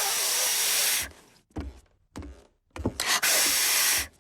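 Cartoon piglet blowing hard through pursed lips twice, each a long breathy hiss with no whistle tone in it: a failed attempt to whistle.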